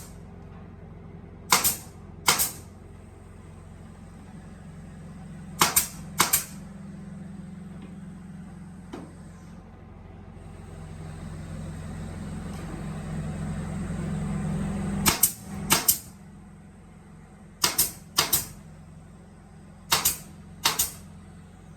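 Woodworking drilling machine running with a low hum that swells and then drops off, with five pairs of sharp clacks, each pair about half a second apart.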